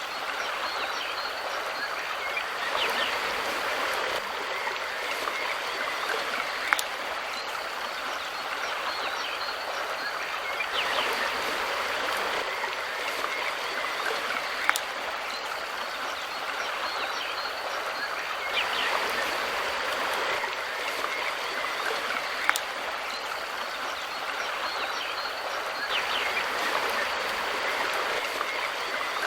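Mountain river flowing: a steady rush of water that swells and eases every seven or eight seconds, with a sharp tick about every eight seconds.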